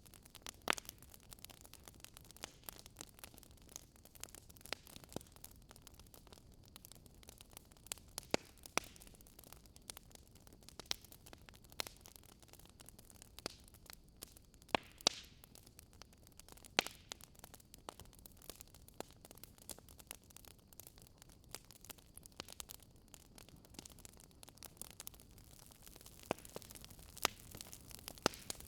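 Wood fire burning, with frequent irregular sharp crackles and pops over a faint steady hiss of the flames.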